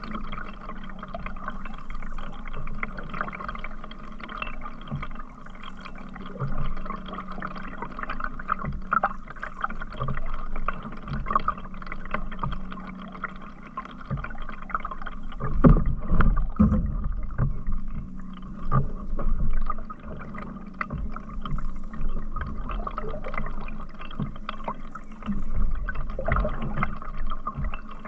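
Canoe under way: paddle strokes in the water and water lapping and gurgling against the hull, with a few louder low thumps about halfway through and again near the end.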